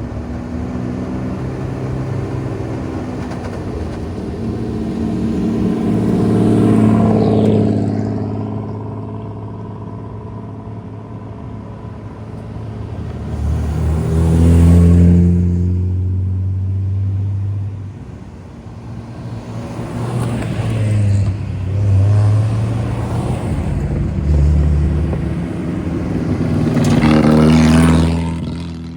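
Several classic Japanese cars with loud aftermarket exhausts driving by one after another, engines revving; the exhaust swells to about five loud peaks.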